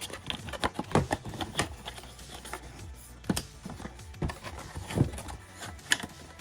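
A model car's boxes and packaging being handled and packed away: irregular clicks, taps and knocks, the sharpest about a second in, around three seconds in and around five seconds in.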